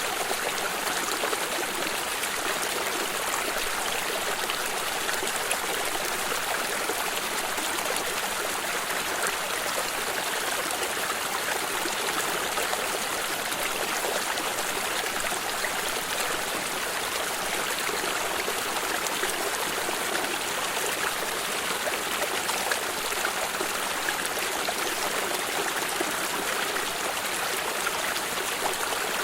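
Water stream flowing steadily over stones, an even continuous rush with trickling.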